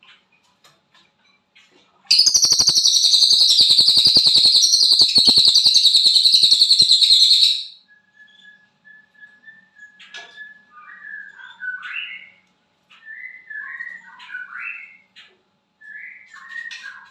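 Cililin songbird singing: a loud, very rapid buzzing trill for about five seconds, then a faint thin whistle and softer chirping phrases.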